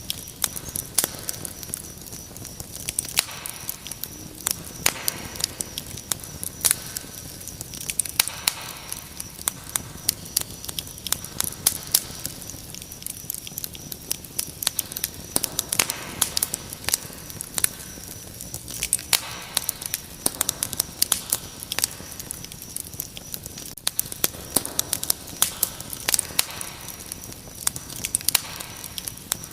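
Wood fire crackling with frequent sharp pops and snaps, over a steady high-pitched chirring of crickets.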